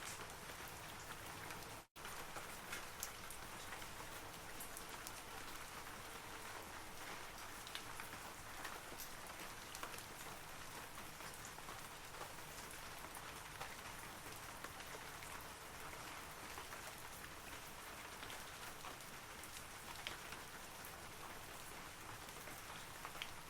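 Steady rain falling on forest trees, a dense even hiss with many small droplet ticks. The sound cuts out for a split second about two seconds in, then carries on unchanged.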